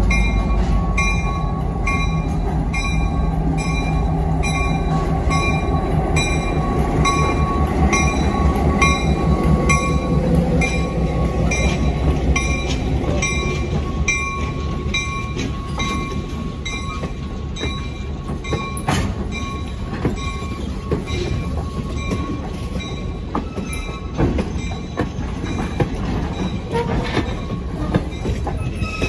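Diesel switcher locomotive rumbling past with its bell ringing steadily, the ringing fading out about halfway through. Passenger coaches then roll by, their wheels clicking over the rail joints.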